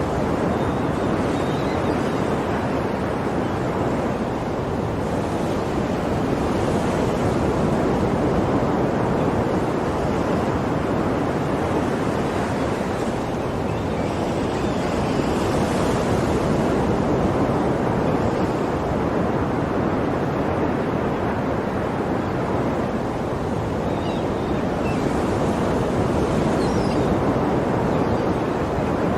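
Ocean waves washing on a shore, a steady rush that swells a little about every ten seconds.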